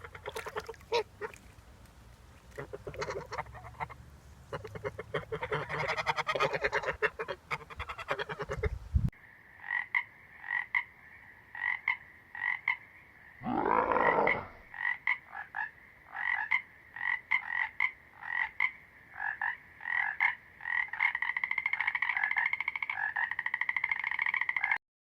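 Geese honking, then, about nine seconds in, a cut to frogs croaking. The frogs give a long run of short, evenly repeated calls, with one longer, lower call partway through.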